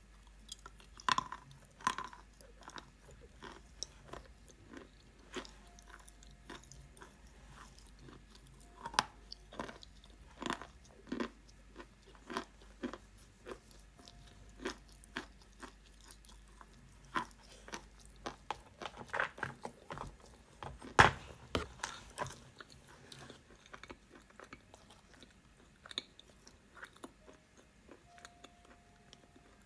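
Close-miked biting and chewing of wet mountain chalk: irregular crunches and crackles, the loudest one about two-thirds of the way through.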